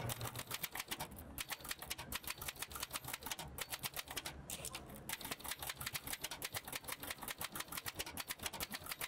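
Manual typewriter being typed on: quick runs of keystrokes, several a second, with short pauses between bursts.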